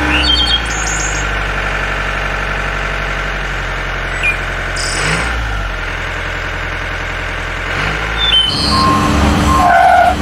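A small vehicle's engine running steadily, with a few short high chirps over it; the engine sound changes about eight seconds in.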